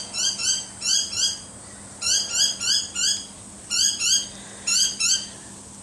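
Small birds chirping: short, high calls in quick groups of two or three, repeated every half second to a second.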